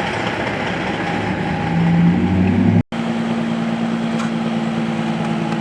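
Tractor-trailers running past on a highway: steady engine and tyre noise, with a louder low engine note swelling about two seconds in. Partway through, the audio cuts out for an instant.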